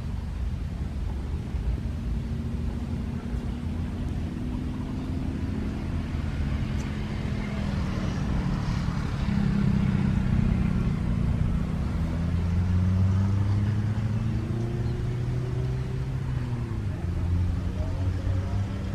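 Low rumble of wind on the microphone under a low engine hum whose pitch slowly rises and falls; it swells to its loudest around the middle.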